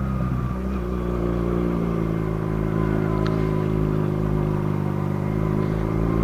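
Motorcycle engine running steadily under way, heard from the rider's seat. Its note shifts about half a second in, then holds even.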